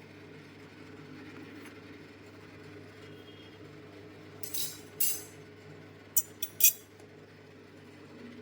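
Steady low hum under two short scraping swishes about halfway through, then three quick sharp clinks, kitchenware being handled.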